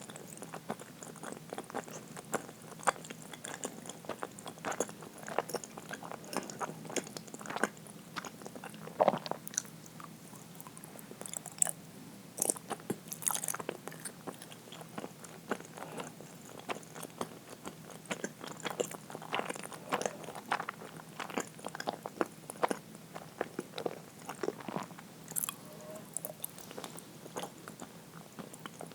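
A person chewing soft, sticky uirō (sweet rice-flour jelly) close to the microphone: irregular small wet mouth clicks and smacks, several a second, with no pauses.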